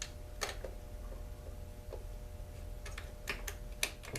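A few scattered light clicks and taps of small metal parts and tools being handled during chainsaw disassembly, over a steady faint hum.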